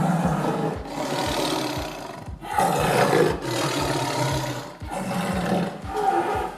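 A large animal roaring in three long, rough calls, over a steady low thumping beat.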